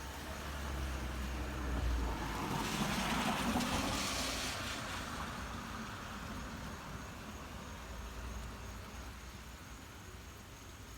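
A road vehicle passing by, growing louder to a peak about three seconds in, then slowly fading away.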